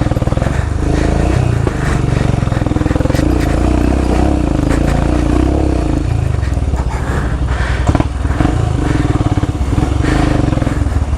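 Royal Enfield Himalayan's single-cylinder engine running under load as the motorcycle climbs a steep dirt incline, steady throughout, with a few scattered knocks.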